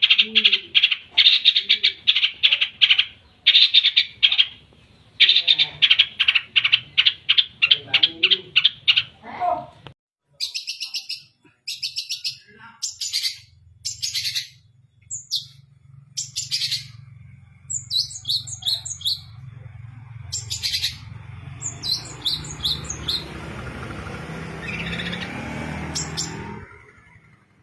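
Long-tailed shrike (cendet) singing. For about ten seconds it gives fast runs of repeated notes. After a break, higher, separate short phrases follow over a low steady hum.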